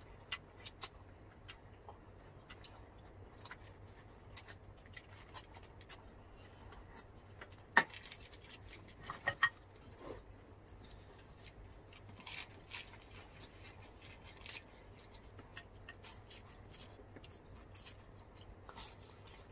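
Eating sounds: faint crisp crunches and chewing from biting into crispy fried spring rolls (lumpiang Shanghai) and lettuce, with scattered crackles and a sharper crunch about 8 s in and a few more around 9 to 10 s.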